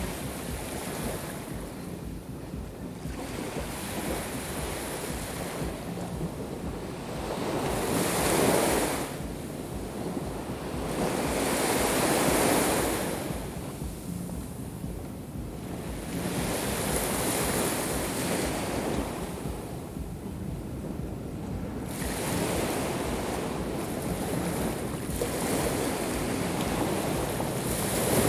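Black Sea surf breaking on the shore, each wave swelling and falling away every few seconds, with wind buffeting the microphone.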